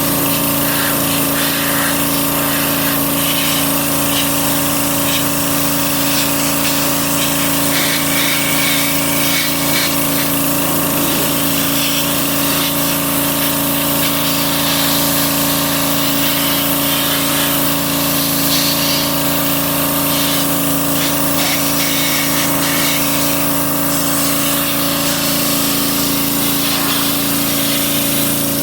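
A motor-driven machine running steadily at an even pitch, with a patchy higher hiss or scraping coming and going over the hum.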